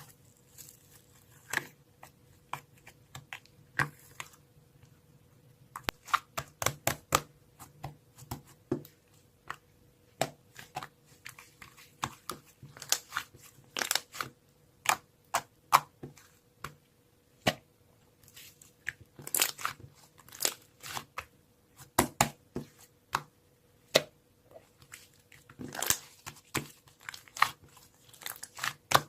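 Irregular sharp clicks and crackling taps, close to the microphone, some in quick clusters.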